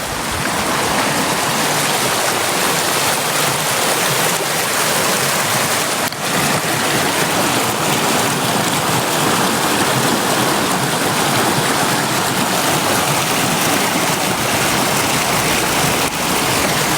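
Rushing river water, a loud steady hiss of flowing current.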